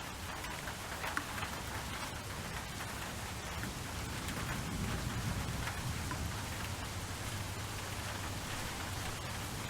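Steady rain falling on a surface, with scattered individual drops ticking through the hiss. A low rumble swells about halfway through.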